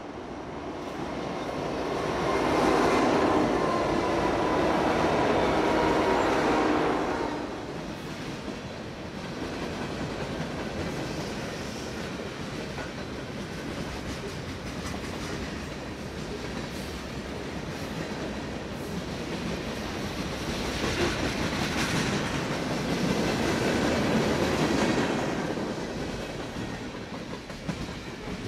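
Union Pacific freight train passing: its diesel locomotives are loudest a few seconds in as they go by, then come the steady rumble and clickety-clack of the freight cars rolling past. The noise swells again about twenty seconds in as more cars pass.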